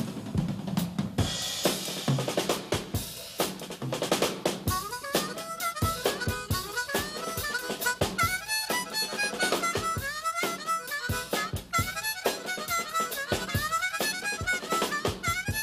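Harmonica playing a fast train-song medley over a steady drum-kit beat with snare.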